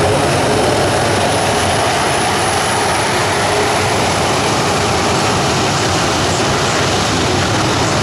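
Boeing E-3F Sentry's four CFM56 turbofan engines running: a loud, steady rush of jet noise with a thin high whine above it.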